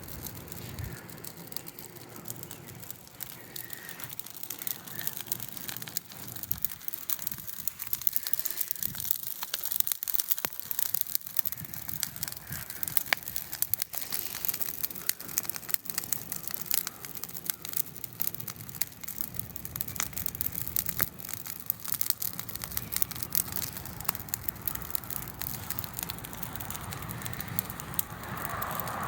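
Bonfire of dry sticks and grass, started with gasoline, burning hard with continuous crackling and many sharp, irregular pops.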